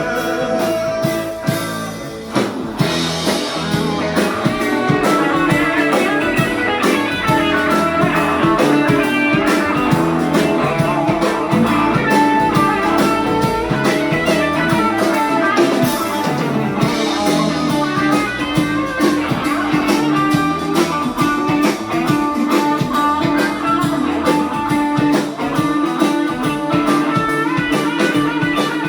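Instrumental break of a blues-rock song: guitar played over a drum kit, steady and continuous.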